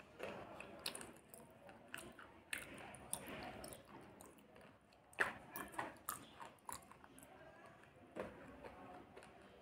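Slate pencil being chewed with the mouth closed: irregular crunches and clicks as the pieces break between the teeth, the loudest about five seconds in.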